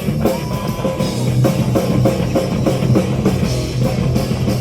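Live heavy metal band playing an instrumental passage: fast drum kit strikes over distorted guitars and bass.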